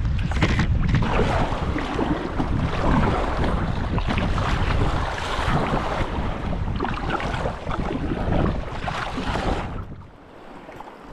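Wind buffeting the microphone over choppy sea water splashing around a kayak, loud and continuous, dropping away abruptly about ten seconds in.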